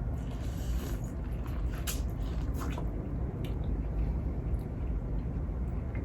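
Close-up eating sounds: chewing, wet squishing and a few sharp clicks as seafood is eaten by hand, over a steady low rumble.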